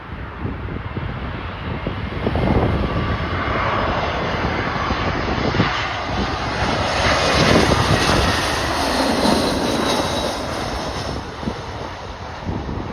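Jet airliner on approach passing close by: its engine noise swells from about two seconds in, is loudest in the middle with a faint whine falling in pitch, then fades away. Gusty wind buffets the microphone throughout.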